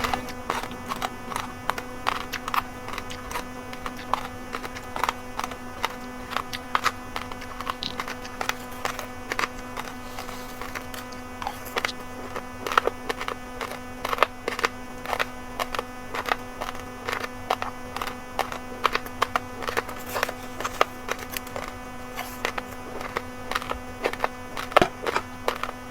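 Raw uncooked rice, red and white grains mixed, being chewed: irregular sharp crunching clicks, several a second, over a steady low electrical hum.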